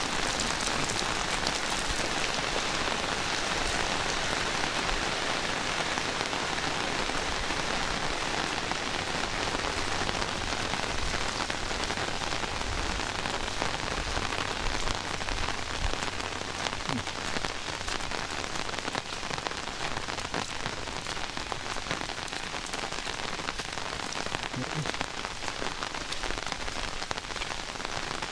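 Heavy rain falling steadily, a dense hiss of drops striking the ground and nearby surfaces, easing slightly in loudness toward the end.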